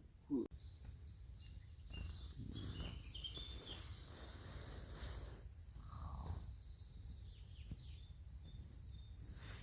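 Faint woodland birdsong: several small birds chirping, high-pitched and scattered, over a low steady background rumble.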